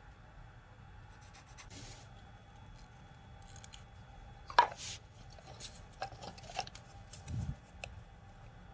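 Scattered light clicks and short scrapes of small parts being handled, with one sharp click about four and a half seconds in and a dull low thump a few seconds later.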